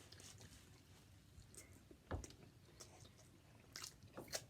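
Quiet eating sounds: scattered soft mouth clicks and smacks of chewing, with a soft knock about two seconds in and a few sharper clicks near the end.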